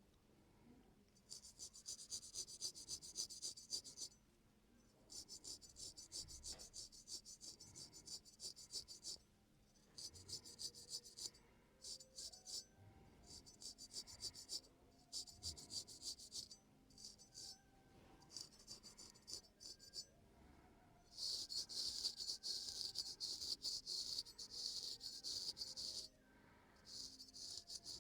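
Razor blade scraping the fine hair on a man's ear in quick, light, close strokes. The strokes come in runs of a few seconds with short pauses between, and the longest, loudest run falls in the last quarter.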